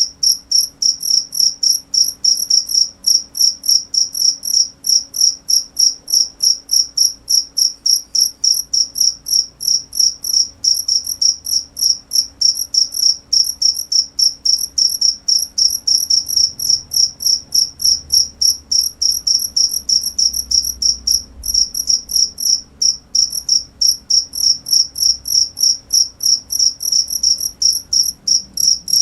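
Cricket chirping steadily, about four short high-pitched chirps a second.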